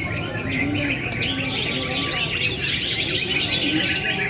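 Many songbirds singing at once: a dense chorus of overlapping quick chirps and trills.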